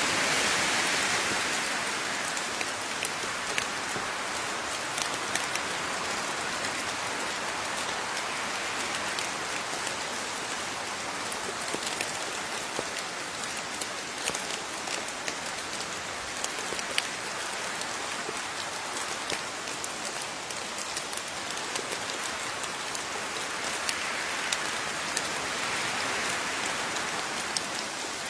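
Steady rain falling, with a constant hiss and many separate drops ticking sharply on a surface. The rain swells slightly a little before the end.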